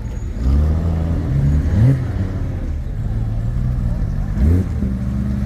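Porsche sports car engine running at low revs as the car moves off, with two short revs, about two seconds and about four and a half seconds in.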